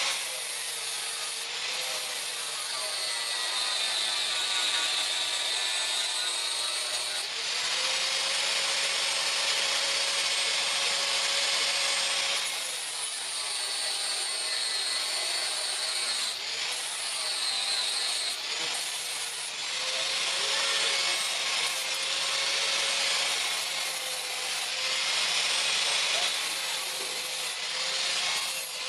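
Electric grinder working steel, its motor whine dipping in pitch and recovering as the piece is pressed against it, with short pauses between passes.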